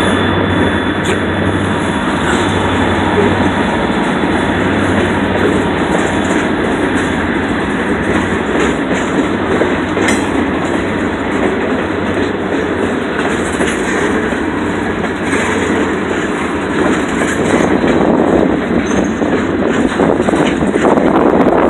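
Freight train cars rolling past, a loud steady rumble of steel wheels on the rails with occasional clicks over rail joints.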